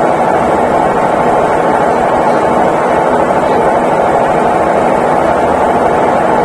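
Consul Facilite CWG11 top-loading washing machine running, a loud, steady whirring hum with no rhythm or breaks.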